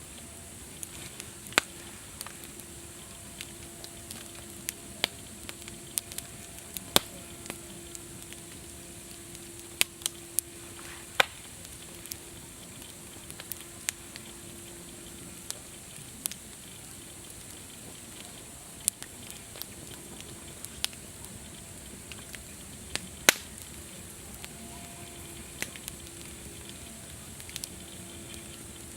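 Campfire crackling: irregular sharp pops and snaps over a steady high hiss, with the loudest pop about 23 seconds in.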